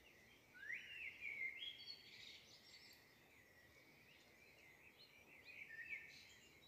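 Faint bird chirps and short rising whistles, in a cluster about half a second in and again near six seconds, over near silence.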